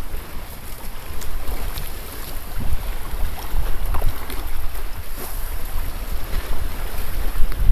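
Wind buffeting the microphone over the wash of sea water, a heavy rumble with a few brief knocks and splashes in it.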